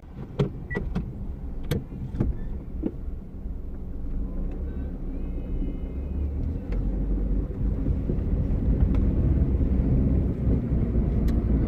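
Car engine running as the car sets off, its low rumble growing steadily louder. Several sharp clicks and knocks come in the first three seconds.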